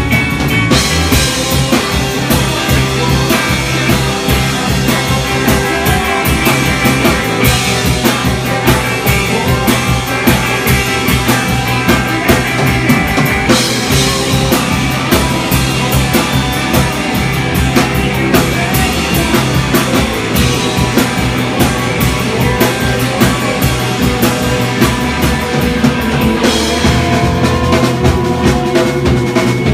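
Rock music with a drum kit and guitar keeping a steady beat; the bright top end thins out a few seconds before the end.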